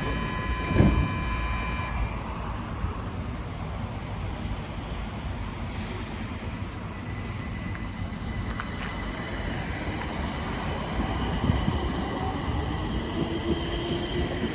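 Stockholm Metro train running on the track: a steady rumble of wheels and motors. A set of steady high tones stops about two seconds in, and a faint rising whine comes in near the end.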